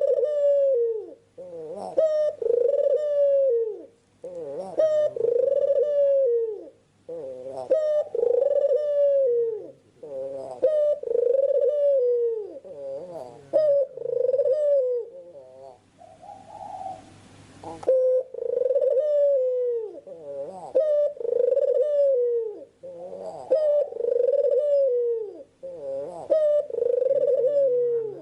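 Young puter pelung turtle dove cooing over and over, each coo a falling note coming about every one to two seconds. About sixteen seconds in, the cooing stops for two seconds while a short hiss sounds.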